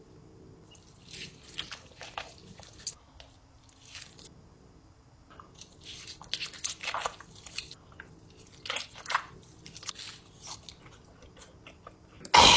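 Close-miked mouth sounds of someone eating giant spicy ramen: irregular bites and wet chewing, a few small clicks and smacks at a time, with a brief louder rush of noise at the very end.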